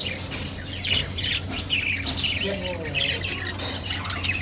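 A flock of small birds chirping and squawking, with many short, high calls overlapping without a break.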